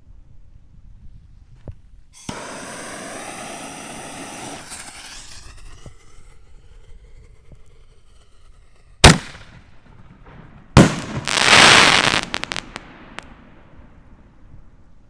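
4-inch canister firework shells going off. A hissing rush lasts about three seconds, a sharp bang comes about nine seconds in, and a second bang follows at about eleven seconds with a loud noisy rush that fades over a couple of seconds.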